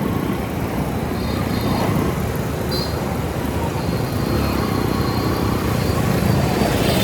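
Motorcycle riding through city traffic: steady engine and road noise with wind rush on a helmet camera, and faint high-pitched tones over it now and then.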